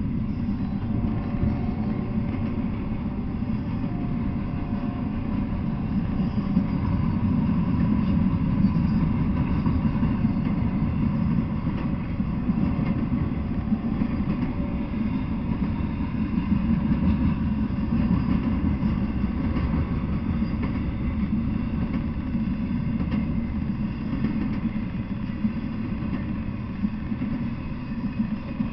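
Intermodal freight train rolling past: a steady rumble of steel wheels on the rails, with faint ringing tones above it.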